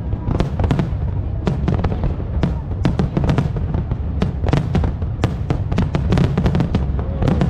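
Aerial fireworks bursting in a rapid barrage: many sharp cracks and pops, several a second in irregular clusters, over a continuous low rumble of booms.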